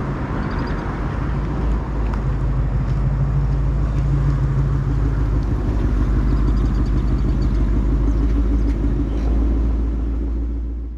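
Ford Mustang's 5.0 V8 running at low speed through long-tube headers and a Corsa active-valve exhaust, a steady deep exhaust note that gets a little louder in the middle and eases off near the end.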